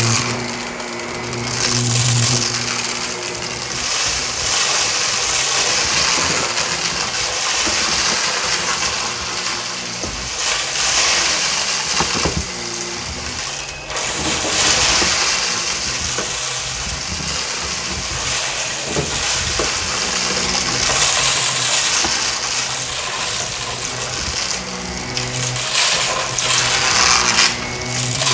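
Shark vacuum cleaner running over carpet, its motor humming under a loud rushing hiss, with crunching and clinking as debris is sucked up. The sound swells and eases with fast strokes.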